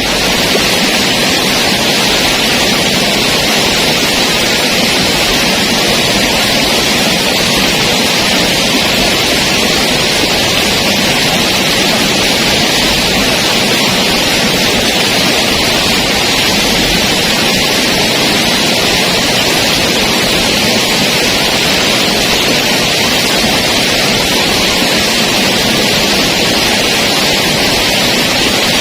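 Waterfall rushing close by: a loud, steady roar of falling water that does not let up.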